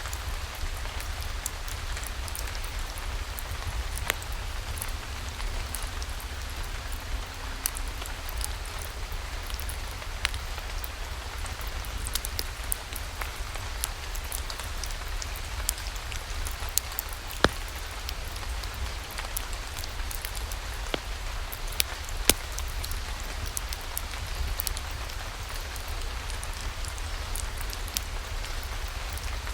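Steady rain falling, with scattered sharp clicks and pops throughout, a few louder ones in the second half, over a low rumble.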